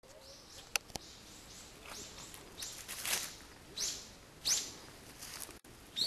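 A bird calling: a string of short, high notes, each falling in pitch, coming irregularly, with a sharp click about a second in.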